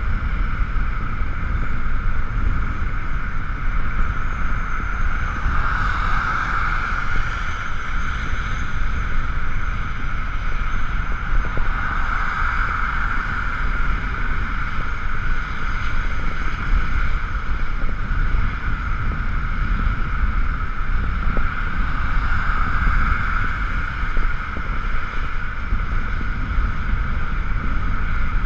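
Riding noise on an Ekoway ML5000 electric motorcycle in the rain: wind buffets the GoPro microphone with a heavy low rumble, under a steady higher rushing whir that swells and fades three times.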